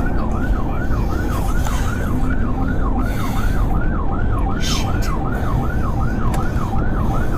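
Police car siren in fast yelp mode, its pitch sweeping up and down about three times a second, over loud engine and road noise from a vehicle in a pursuit.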